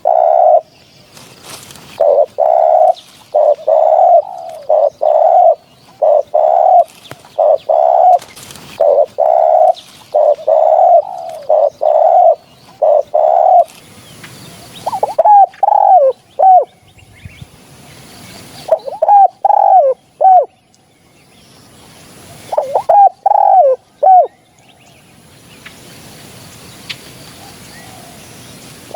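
Spotted dove cooing: a fast, even run of coos for the first half, then short phrases of three or four notes every few seconds. It is a recorded call used as a lure for hunting spotted doves.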